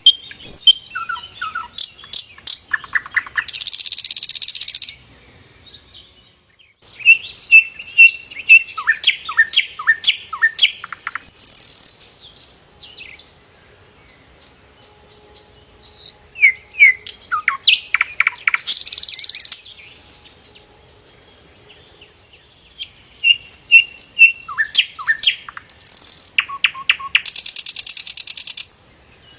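Sikatan londo flycatcher singing in four bouts of rapid high chirps, trills and down-slurred notes. Each bout ends in a loud, harsh buzzy rattle, with short pauses between bouts.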